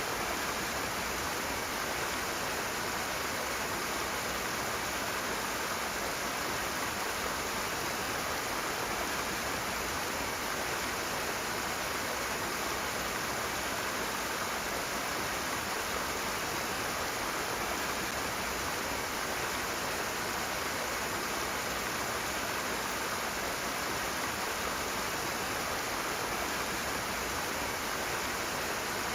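Rushing water of a fast stream or small cascade, a steady, even rush with no breaks.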